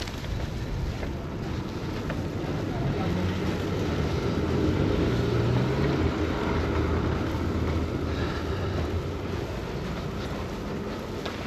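Strong wind buffeting the microphone, with a motor vehicle passing on a snowy street: its low engine hum swells about three seconds in, is loudest in the middle, and fades.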